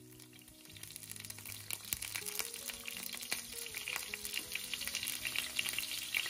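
Chopped onions and green chillies frying in hot oil in a pan: a crackling sizzle that starts about a second in and grows louder. Soft background music plays underneath.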